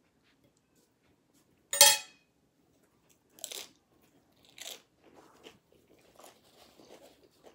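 A person biting and chewing tortilla-chip nachos: one loud crisp crunch about two seconds in, then two smaller crunches and a run of softer chewing crackles.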